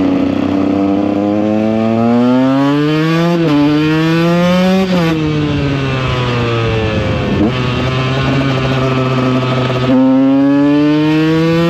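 KTM EXC 125 two-stroke single-cylinder engine under hard acceleration. Its pitch climbs and drops sharply twice as the rider shifts up through the gears, sags off throttle in the middle, and climbs again as he opens the throttle near the end.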